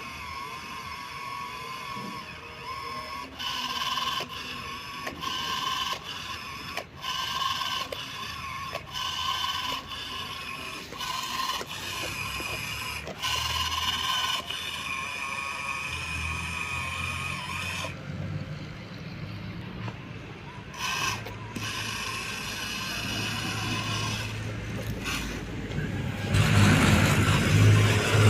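Small electric gear motor of a miniature RC model tractor whining through its gearbox, cutting out and starting again every second or so. Near the end a louder, lower rumbling noise comes in.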